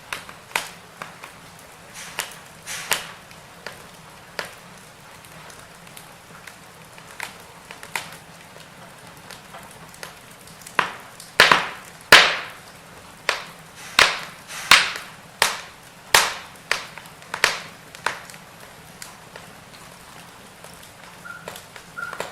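Firewood burning: irregular sharp crackles and pops over a faint steady hiss, coming thickest and loudest for several seconds around the middle.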